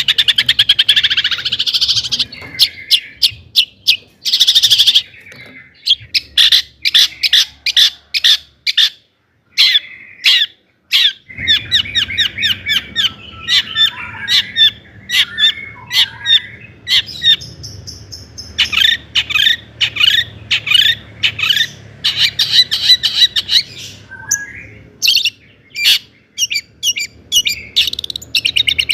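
Long-tailed shrike singing: fast runs of sharp, rapidly repeated notes mixed with harsh chattering calls, broken by a short pause about ten seconds in.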